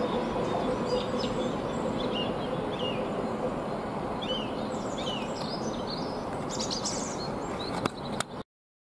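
Steady distant rumble of a diesel freight train moving away, with small birds chirping over it through the middle. A couple of clicks near the end, then the sound cuts off abruptly.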